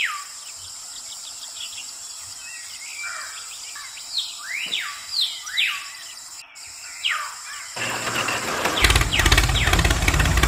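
Small birds chirping in short sweeping calls over a quiet outdoor background. About eight seconds in, a louder steady engine-like running noise starts and continues.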